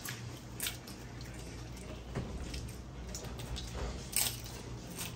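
Close-up eating sounds: loaded tortilla-chip nachos bitten and chewed, a few crisp crunches among wet chewing and mouth sounds, the loudest crunch about four seconds in.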